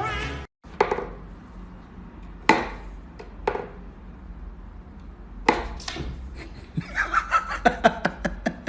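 A few separate sharp knocks or taps about a second apart, then a quicker run of taps, several a second, near the end.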